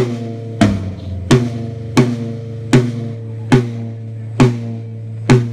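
A single drum on a drum kit struck repeatedly for a soundcheck, about once every 0.7 s, eight hits in all, slowing slightly. Each hit rings on with a low, steady pitched tone.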